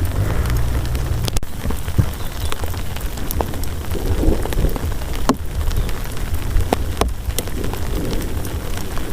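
Heavy rain falling steadily, with many sharp single drops striking a surface close by, over a low continuous rumble.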